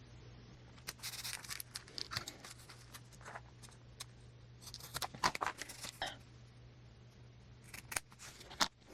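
Washi tape being handled and laid along the edge of a paper journal page: faint scattered rustles, crinkles and small clicks in short clusters.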